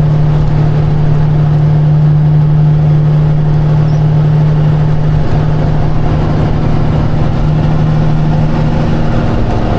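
Peterbilt semi-truck's diesel engine running steadily at highway cruise, heard from inside the cab as a loud, even low drone. There is a brief wobble in the drone about five seconds in.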